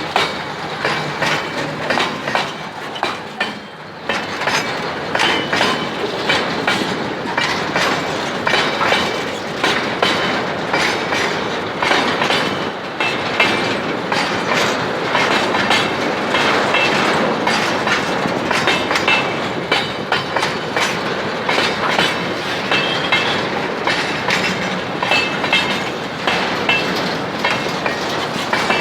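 Freight train wagons rolling past, their wheels clicking and clacking over the rail joints in a steady run of knocks, with faint wheel squeal at times.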